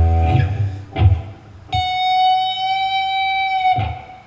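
Guitar playing the closing phrase of the lead line, ending in a high string bend up from the 14th fret. After a few quick notes and low thumps at the start, a single high note rings clearly for about two seconds and is then stopped.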